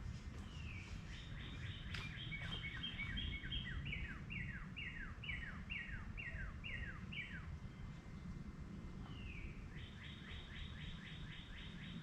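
A songbird singing two songs, each a quick series of short, downward-sliding whistled notes, the first lasting several seconds and the second starting near the end, over a steady low background rumble.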